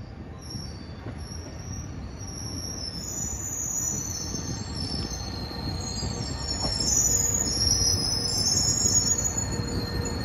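KiHa 122 series diesel railcar arriving and slowing, its running gear rumbling and growing louder as it nears. High, wavering squeals ride over the rumble from about three seconds in as it brakes.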